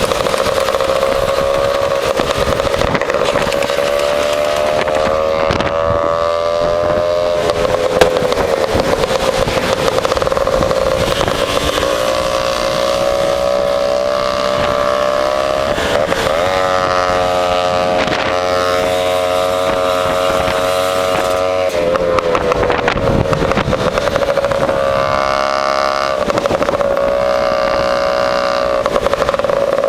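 Lambretta scooter's two-stroke engine heard through an AF reverse cone exhaust while riding along. Its revs fall away and climb again several times.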